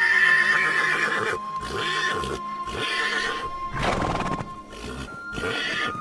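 Horse whinnying: a long, wavering neigh at the start, then several shorter calls and noisy bursts, over background music.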